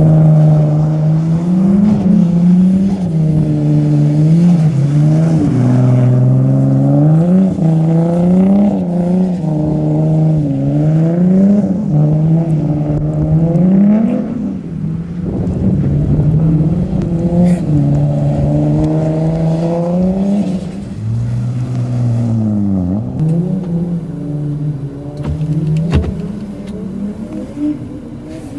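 Nissan Skyline R32 GTS-t's turbocharged straight-six revving up and down again and again as the car drifts in tight circles on snow, its pitch rising and falling every second or two. It grows quieter in the last several seconds, with a single sharp click near the end.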